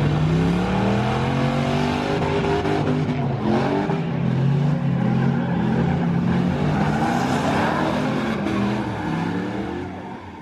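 Several race truck engines running hard on a track, their notes rising and falling as they accelerate and ease off. The sound fades a little near the end.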